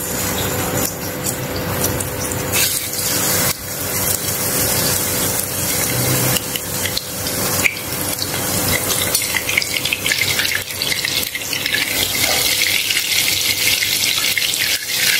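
Raw minced-beef kababs sizzling in hot oil in a nonstick frying pan as they are laid in one after another, with a few soft knocks as each goes in. The frying grows brighter about ten seconds in as the pan fills.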